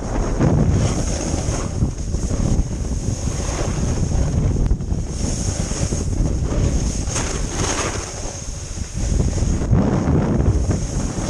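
Wind buffeting the microphone while riding downhill, over the hiss and scrape of a snowboard sliding on icy, freezing-rain-crusted snow. The scraping swells and fades every second or two.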